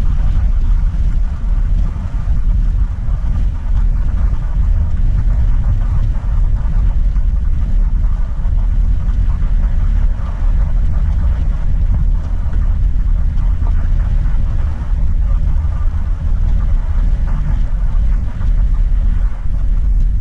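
Steady low rumble of a car driving on the road, engine and tyre noise running evenly.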